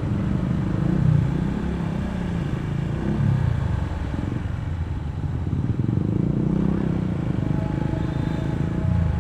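Honda ADV160 scooter's single-cylinder engine running on the move, its pitch rising and falling with the throttle; it eases off about four seconds in and picks up again a couple of seconds later, over road noise.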